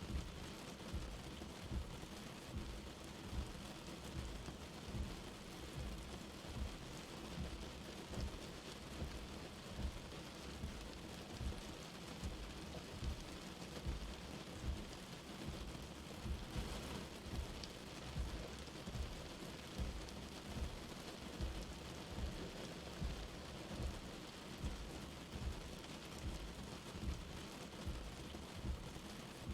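Light rain falling steadily, an even hiss of drops, with soft low thuds recurring about once a second.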